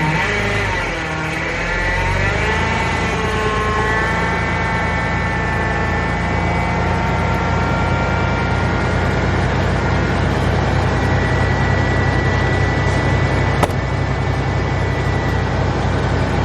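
Pickup truck engine idling steadily just after a cold start at about −25 °F, with a higher whine over it that wavers in pitch for the first few seconds and then holds steady. A single sharp click comes near the end.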